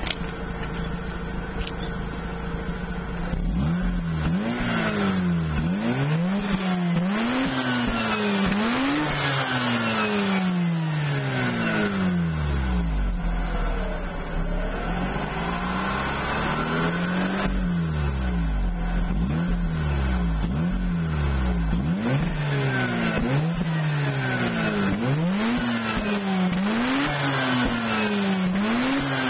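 Early (pre-facelift) Mazda RX-8's twin-rotor Renesis rotary engine through its stock exhaust, idling steadily for about three seconds and then revved up and let fall back over and over, some quick blips and a few slower, longer revs.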